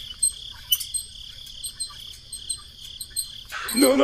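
Insects chirping steadily in a continuous high trill, with a higher short chirp repeating about every half second. A voice begins near the end.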